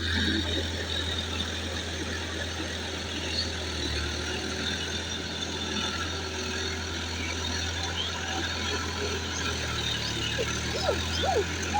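Tractor engine running steadily with a low hum.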